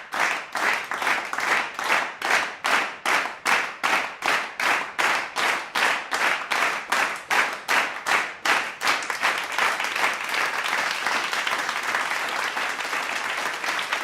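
A group of people clapping in unison, about three claps a second, which breaks up into ordinary continuous applause after about nine seconds.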